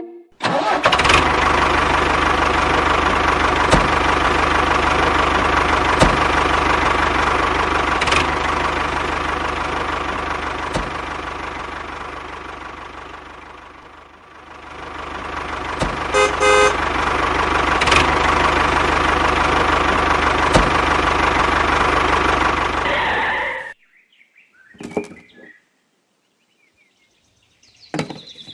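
An engine running steadily. It fades down to a low about halfway through, then builds back up. A short horn-like beep sounds soon after. The engine cuts off suddenly near the end, and a couple of brief sounds follow.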